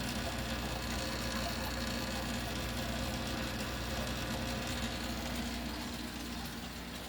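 Steady mechanical hum of running machinery, several constant tones layered together, easing off slightly near the end.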